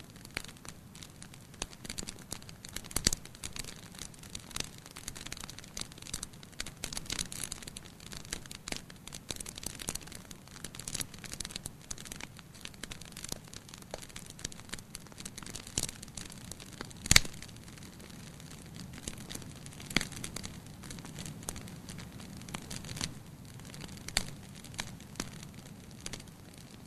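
Wood fire burning in a fireplace: a steady low hiss with frequent irregular crackles and snaps, the sharpest pop about 17 seconds in.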